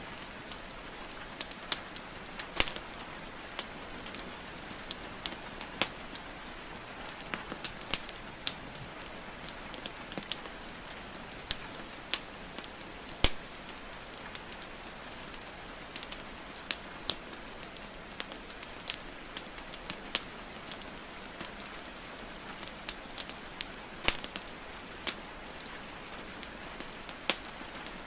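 Wood fire crackling and popping with irregular sharp snaps over a steady hiss of rainfall.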